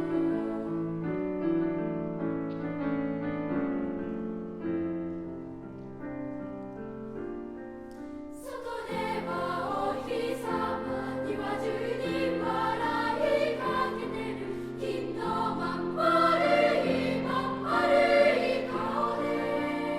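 Children's choir singing a three-part chorus with piano accompaniment. A softer passage of sustained notes gives way, about eight seconds in, to fuller and louder singing.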